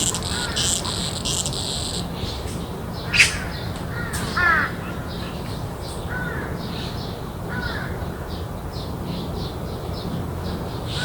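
Garden birds calling with short falling chirps and a string of quick high notes, with one loud sharp call about three seconds in. Insects chirr in pulses during the first two seconds, over a steady low background rumble.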